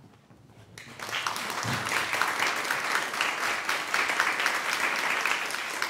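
Concert audience applauding after a chamber-music piece ends, with the clapping breaking out about a second in and staying steady and full.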